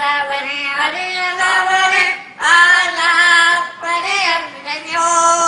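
A high voice singing long held notes that slide up and down, in several phrases with short breaks between them.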